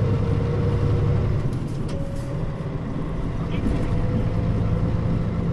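Mitsubishi Fuso KL-MP35JM-based bus with a Nishinihon (西工) body heard on board while running: a steady low engine drone with a faint whine. A few brief hisses come about a second and a half to two seconds in, and the drone dips slightly in level after that.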